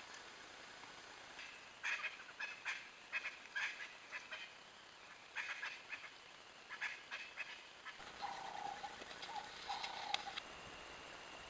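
Birds calling: several bursts of rapid, scratchy chattering, then a few short, lower-pitched calls near the end.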